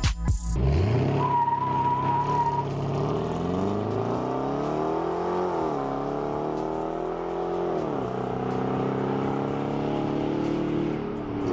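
2017 Dodge Durango R/T's 5.7-litre HEMI V8 through a Gibson axle-back exhaust, accelerating hard: the engine note climbs, drops suddenly twice as it shifts up, then holds steady. A thin high squeal is heard briefly about a second in.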